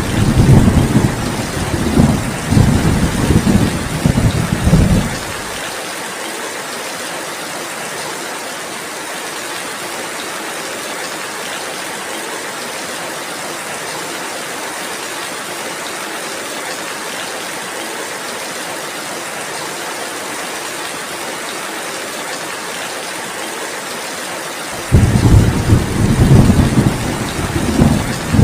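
Steady rainfall hissing throughout, with two spells of loud, low rolling thunder: one fading out about five seconds in, another building near the end.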